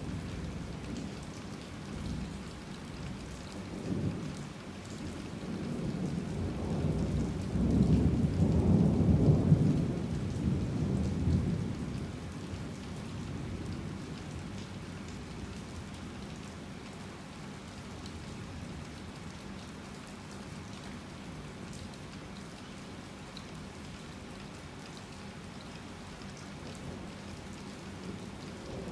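Heavy rain falling steadily, with rolling thunder: a low rumble swells about six seconds in, peaks, and dies away a few seconds later, leaving the rain alone.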